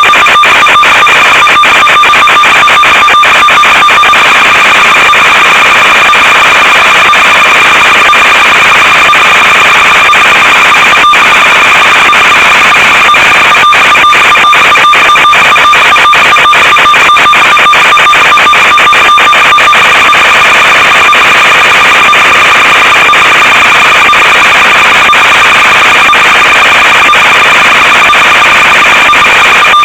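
Loud, steady electronic buzz with a constant whining tone over dense hiss, crackling with frequent brief dropouts, typical of the audio channel of an analog FPV video link recorded from the plane.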